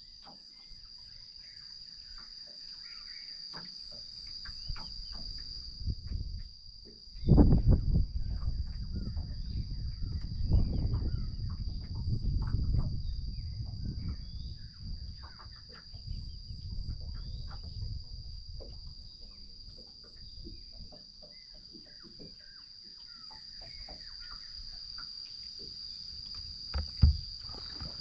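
Steady high-pitched chorus of crickets. Low rumbling noise rises over it from about 7 to 15 seconds in, and there are a couple of sharp knocks near the end.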